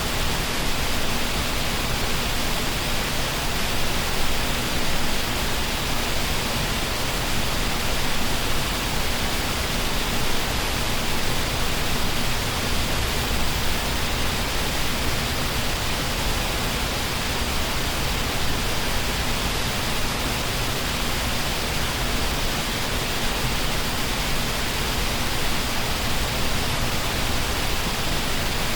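Waterfall pouring in a steady, unbroken rush of water, with a faint low hum beneath it.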